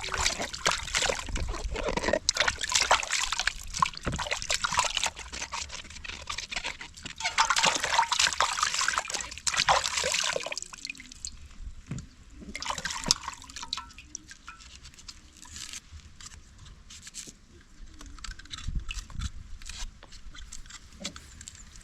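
Water sloshing and splashing, as from hands working in a basin of water. It is busy for about the first ten seconds, then drops to occasional, quieter splashes.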